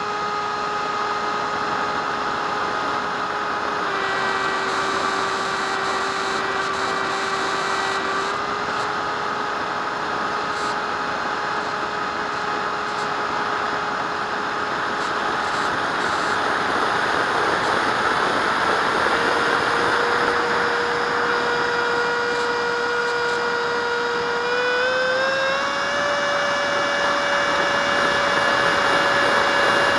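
Electric ducted fan of an RC model jet running: a steady high whine over a rush of air. The whine drops a step about 4 s in, comes back up around 8 s, and climbs in two more steps in the second half as the sound grows a little louder.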